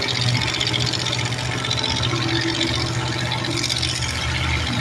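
Vehicle engine idling steadily with a low, even drone and no revving.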